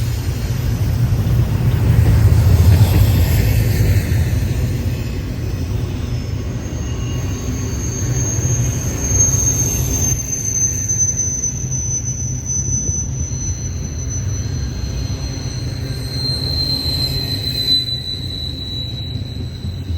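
Train rolling past with a steady low rumble, its wheels squealing against the rail in long, thin, high tones that drift slowly lower in pitch through the second half.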